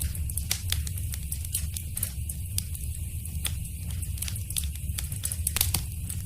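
Wood fire in a fireplace crackling: frequent irregular sharp pops and snaps over a steady low rumble of burning, with a quick cluster of louder pops about five and a half seconds in.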